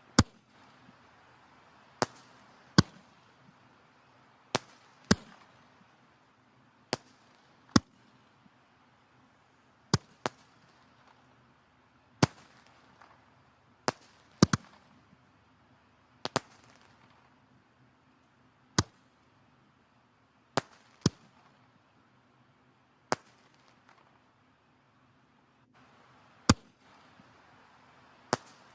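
Wood fire burning in a fireplace: logs crackling with sharp, irregular pops about every second or two over a faint steady hiss.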